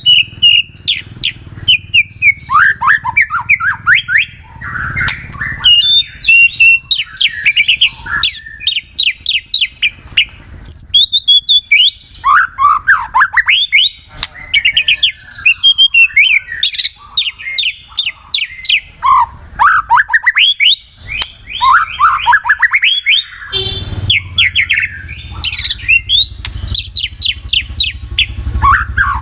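White-rumped shama (murai batu) singing loudly and without pause: a varied run of whistles and quick series of downward-sweeping notes.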